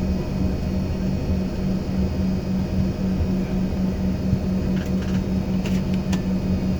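Steady drone of an airliner cabin in flight: a low hum with an even pulsing beat, and a few faint clicks about five seconds in.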